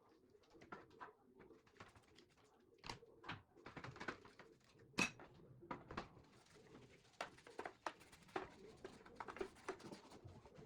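Scattered light clicks and taps, a dozen or more, the loudest about five seconds in, over a faint low murmur.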